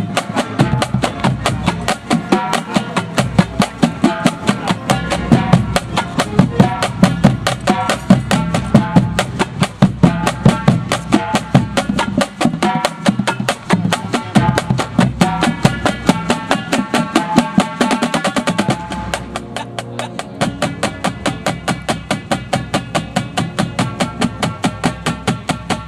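Drum and bugle corps playing: brass over a drumline keeping up rapid, even strokes. About nineteen seconds in the brass thins out and the drums carry on alone.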